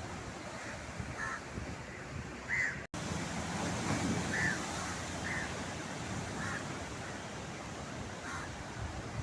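A bird calling repeatedly, short calls about a second apart, over a steady rush of surf. The sound cuts out for a split second about three seconds in.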